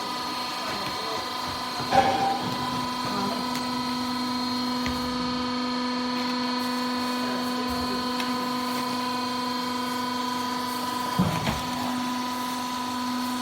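Hydraulic power unit of a DG20 vertical cardboard baler running with a steady hum, with a sharp knock about two seconds in and a smaller clatter later on.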